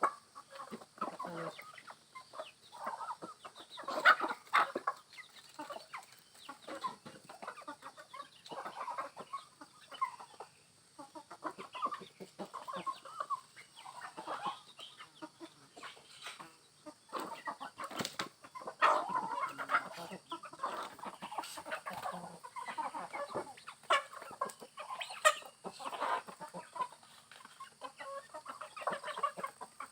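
A flock of free-range village chickens clucking continually, in many short, irregular calls.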